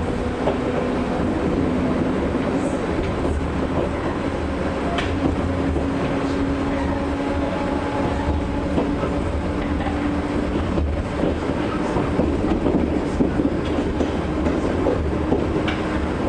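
Motor whine and running noise of the Chichibu Railway 1000 series, an ex-JNR 101 series electric train car, under way. A steady whine edges slowly upward in pitch over a constant rumble, with a few sharp clicks from the rails.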